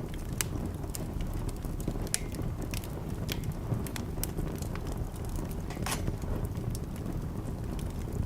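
Wood fire in a fireplace crackling: irregular sharp pops and snaps over a steady low rumble, with a louder pop about six seconds in.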